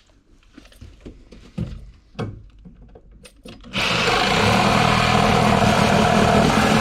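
A few knocks and handling clatter, then a reciprocating saw starts abruptly about four seconds in and runs steadily, cutting into the wooden wall framing.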